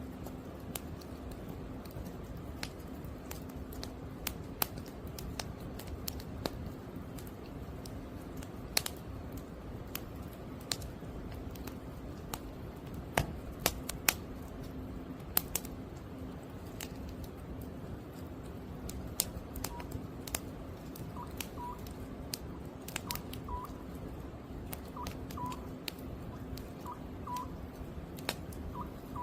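Burning firewood crackling with scattered sharp pops. From about two-thirds of the way in, a common cuckoo calls over and over, short two-note calls about a second apart.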